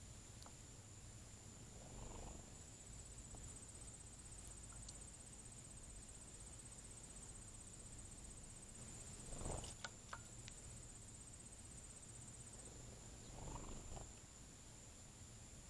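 Faint, steady high-pitched insect song, with a second insect's fast pulsing trill starting a few seconds in and stopping about three-quarters of the way through. A few soft whooshing swells come and go, the loudest about halfway through, followed by a couple of sharp clicks.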